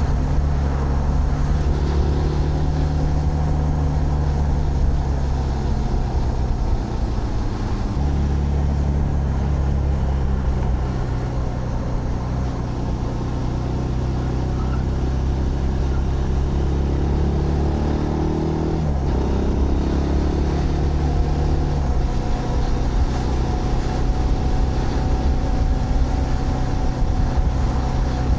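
Zontes GK 125 single-cylinder motorcycle engine running steadily while riding. Its pitch steps and shifts a few times, with a short rise and fall in revs about two-thirds of the way through.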